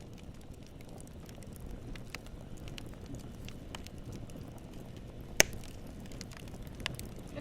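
Campfire burning with a steady low rumble of flame and scattered crackles of wood, with one loud sharp pop a little past the middle.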